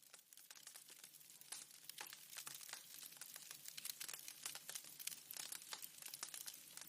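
Wood fire crackling in a fireplace: irregular pops and snaps over a soft hiss, fading in over the first second.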